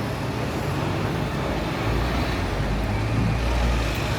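City street traffic: motor vehicles running close by, with a deep engine rumble that grows louder about two seconds in and holds until near the end.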